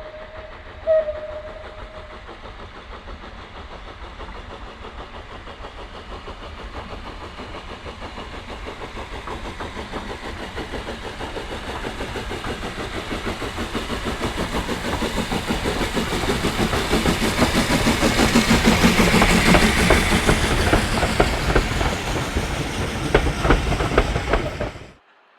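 A steam locomotive gives a short whistle blast about a second in. Its train then approaches and grows louder, with regular wheel clicks over the rail joints. The sound cuts off suddenly near the end.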